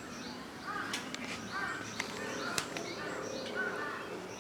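Wild birds calling: one call repeated about once a second over a quicker, higher-pitched chirping, with a few sharp clicks.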